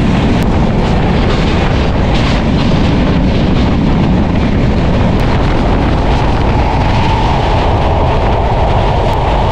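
Moving passenger train heard from its open carriage doorway: a steady rumble of the wheels on the track, mixed with wind rushing over the microphone.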